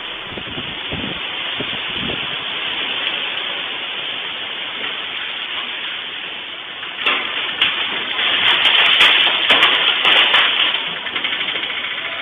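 Steady rushing noise of a storm's wind and rain, growing louder about seven seconds in, with scattered crackles.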